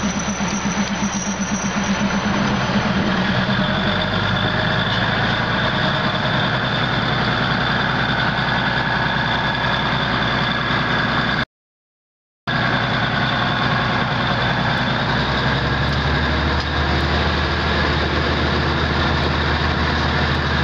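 Diesel train running, heard from an open carriage window: a steady engine drone with a thin high whine over it. The sound drops out completely for about a second just past the middle.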